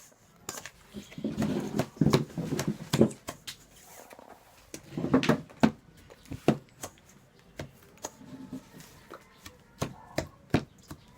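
Kitchen utensils and a mixing bowl being handled while cookie dough is mixed: irregular sharp clicks and knocks, with a few louder stretches of handling and scraping about one to three seconds in and again around five seconds.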